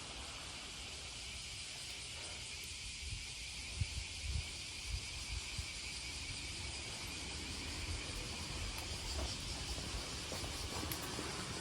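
Chorus of cicadas droning steadily, a continuous high hiss-like buzz, with a few low bumps about four to five seconds in.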